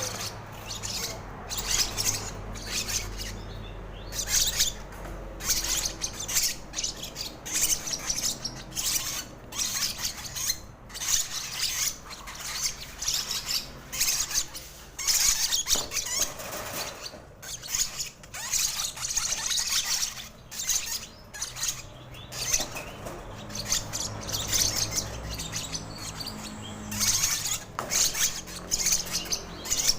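A lovebird's raspy begging squeaks, short calls repeated irregularly about once or twice a second, as it is fed from a spoon.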